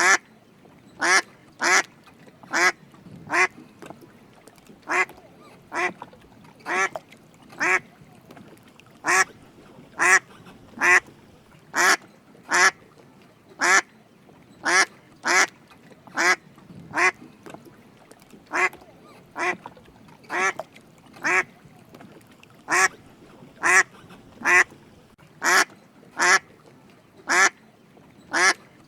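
Drake mallard quacking repeatedly: short, raspy single quacks about once a second, sometimes two in quick succession, with quiet gaps between.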